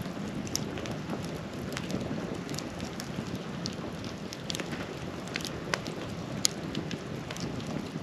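Campfire crackling: a steady hiss with scattered sharp pops and snaps, the loudest about six and a half seconds in.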